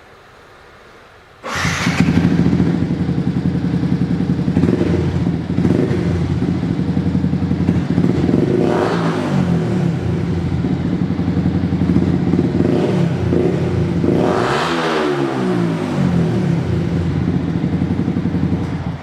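Yamaha YZF R125's 125 cc single-cylinder four-stroke engine through a Scorpion aftermarket exhaust, starting about a second and a half in and idling. It is revved briefly twice, at about 9 s and about 14.5 s.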